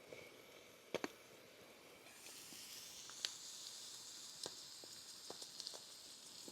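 Two light clicks, then from about two seconds in food starts sizzling in a hot pan: a faint high hiss with scattered small pops.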